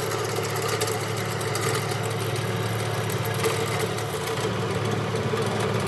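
Engine idling steadily with an even, unbroken hum.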